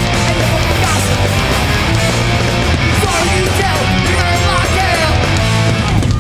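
Live hardcore punk band playing loud and dense with no vocals: distorted guitars, bass and drums, the guitar lines sliding in pitch.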